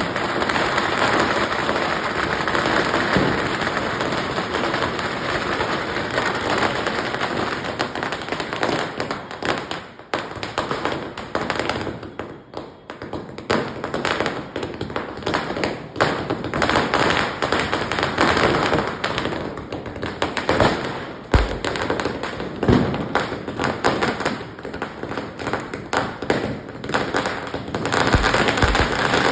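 Diwali firecrackers crackling in dense, rapid runs of sharp pops, easing off for a few seconds in the middle. A few deeper bangs stand out later on.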